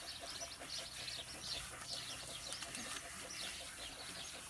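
Small birds chirping over and over, short high calls that slide downward, several a second, over a steady faint hiss of water from the hose sprayer.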